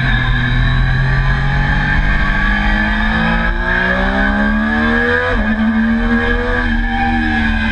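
Triumph Daytona sport-bike engine under hard acceleration on a race track, heard onboard. The pitch holds steady at first, then climbs, drops sharply on an upshift about five seconds in, and climbs again.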